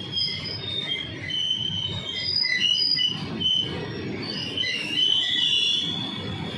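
Goods train's open-top freight wagons rolling past: a steady low rumble of wheels on rails, with many short, high-pitched squeals from the wheels.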